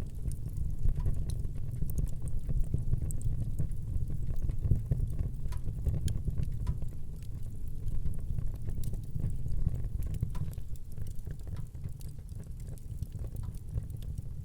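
Wood fire burning in a fireplace: a steady low rumble of flames with many scattered small crackles and pops.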